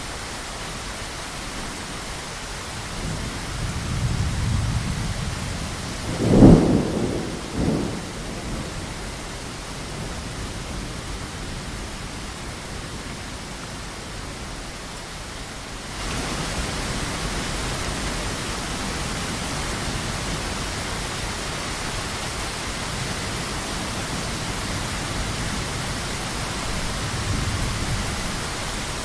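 Steady heavy rain, with a low rumble of thunder building about three seconds in, then a loud thunderclap a few seconds later and a smaller crack about a second after it. The rain gets suddenly louder about halfway through.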